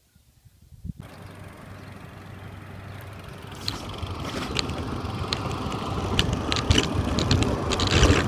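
A vehicle engine running with a low steady hum under wind and road noise. It starts abruptly about a second in and grows steadily louder, with scattered sharp clicks in the second half.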